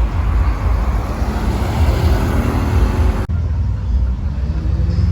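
Sports car engine running at low revs, a low steady drone of several tones with road and crowd noise over it. The sound changes abruptly about three seconds in.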